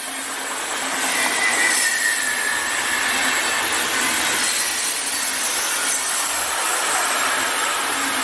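Passenger coaches of a train rolling past, their wheels on the rails making a loud, steady rushing noise, with a faint high tone that falls slightly about a second in.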